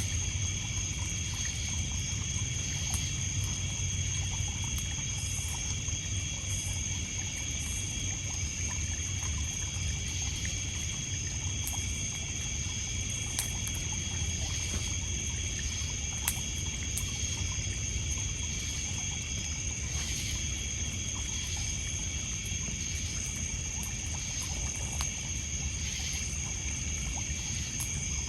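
Wood fire crackling with scattered sharp pops, over a steady chorus of crickets and other insects and water lapping on a pebble beach.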